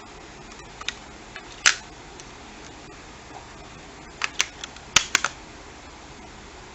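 A few sharp hard clicks and taps, then a quick run of about five near the end, like plastic parts being handled and snapped. There is no lightsaber hum.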